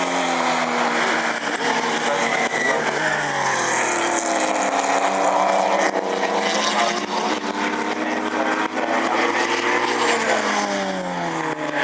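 Several racing sports car engines running hard on a circuit, their pitch falling and rising as cars brake, shift and pass, with more than one engine heard at once.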